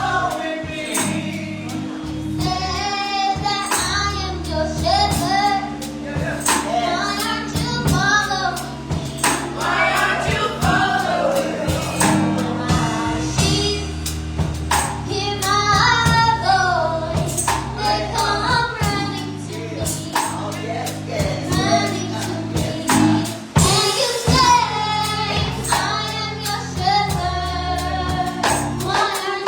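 Gospel singing with a choir or congregation over a band, with steady bass chords and a regular percussion beat, likely tambourine.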